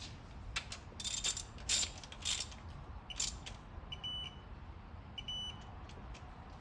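Ratchet clicking in short strokes as a bolt is tightened through a digital torque wrench adapter, then two short high beeps from the adapter, its signal that the set torque has been reached.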